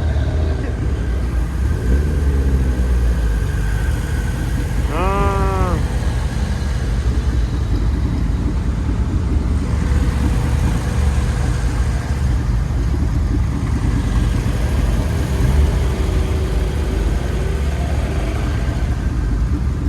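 A car engine runs with a steady low rumble throughout. About five seconds in, a short shout of a voice cuts across it.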